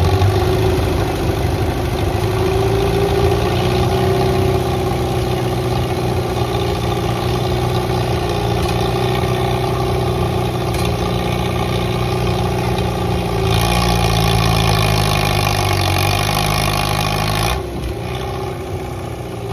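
Antique farm tractor engine running hard under load while pulling a weight sled. It holds a steady pitch, grows fuller and harsher a little past two-thirds of the way through, then drops off suddenly about two seconds before the end.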